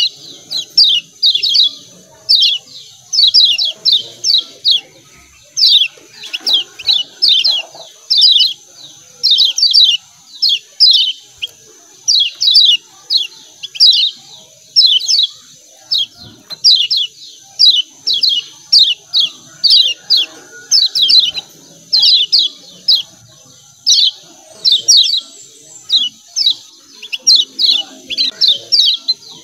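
Kecial kuning (Lombok white-eye) giving rapid 'ciak ciak' chatter calls: quick clusters of two to five sharp, falling chirps, repeated about once a second. A steady faint high tone runs underneath.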